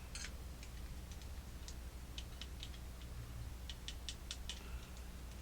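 Faint, irregular light clicks and taps of small clock hands and parts being handled, with a quick run of about five clicks near the end.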